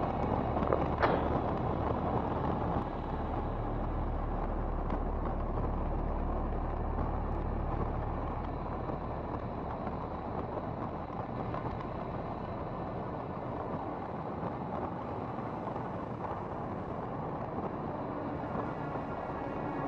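Single-engine Cessna 182's piston engine and propeller running at high power for takeoff and climb: a steady drone with a rushing noise that eases a little about eight seconds in.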